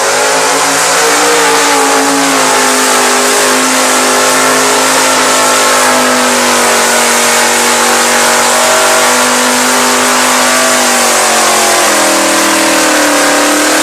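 Modified competition 4x4 truck engine running flat out at high revs under load, loud and steady. Its pitch sags slightly and then climbs again about twelve seconds in.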